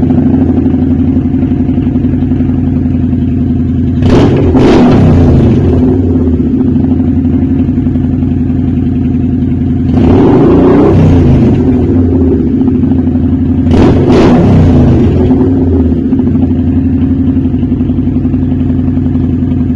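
Kawasaki Vulcan 900 Custom's V-twin, breathing through Cobra Dragster Slashdown exhaust pipes, idling warm. Three short throttle revs, spaced several seconds apart, rise and fall back to the idle.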